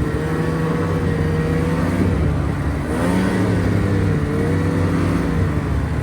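A vehicle engine running under way, its pitch rising and falling slowly as it speeds up and eases off.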